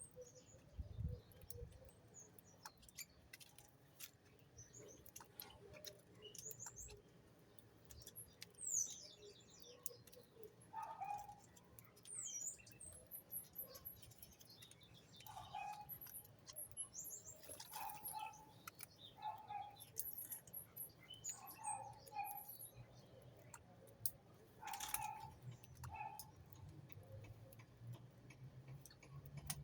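Birds chirping faintly in short high calls and quick falling whistles, scattered through the whole stretch. From about 11 seconds in there are also repeated short lower calls, mixed with faint scattered clicks.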